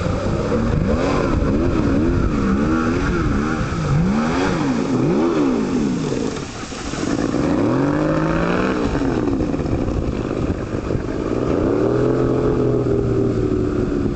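Motorboat engine revving up and down several times in quick swings, then rising once more and settling to a steadier pitch near the end, over a constant rushing noise.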